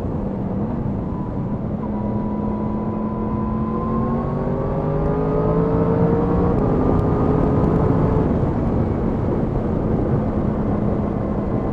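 Yamaha MT-10 SP's crossplane inline-four engine pulling under way, its pitch rising for a few seconds and then falling back about halfway through, over a steady rush of riding wind.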